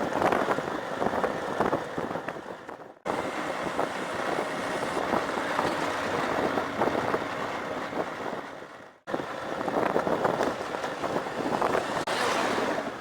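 Vehicle travelling over a rough dirt road: a dense rumble and rattle of road noise with wind on the microphone. It cuts off abruptly twice and resumes, about three seconds in and again about nine seconds in.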